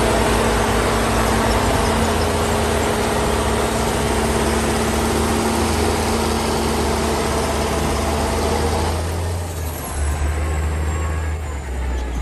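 Tractors' diesel engines running hard during a multi-tractor pull, a loud steady drone. About nine seconds in, the sound drops back to a lower, uneven engine note.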